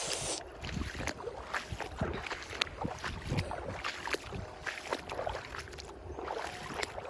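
Shallow seawater sloshing and splashing as someone wades through it, with many small irregular splashes and clicks.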